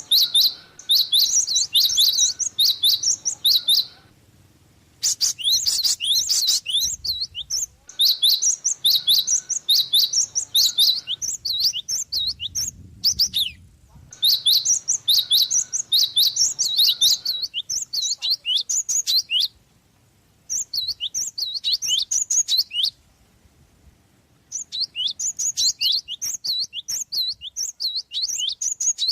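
Java sparrow (glatik) singing in repeated bouts of rapid, high chirps, each a few seconds long, with short pauses between them.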